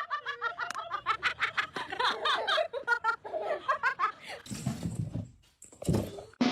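A person laughing hard in quick repeated bursts for about four seconds, followed by two short breathy noises.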